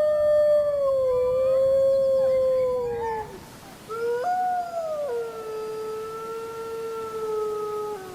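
Wolves howling. A long howl slowly falls in pitch and ends about three seconds in, with fainter howls overlapping it. After a short break, a second howl starts, leaps up in pitch, drops back about a second later and holds a steady note until near the end.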